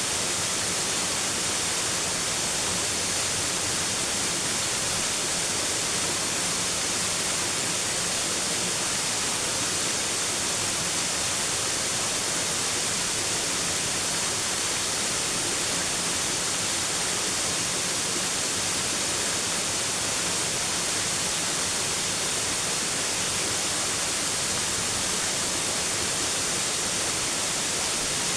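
Steady, unbroken rush of flowing water, a dense hiss that holds the same level throughout.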